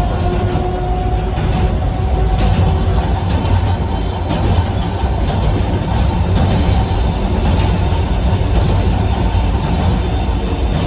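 Cabin noise inside a Sangi Railway Hokusei Line narrow-gauge electric motor car on the move: a steady, loud rumble of the running gear on the rails, with a faint whine and a few light clicks.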